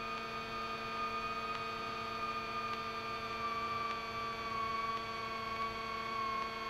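A Grumman GA-7 Cougar's twin engines running during the landing rollout: a steady drone with a high whine that slowly falls in pitch.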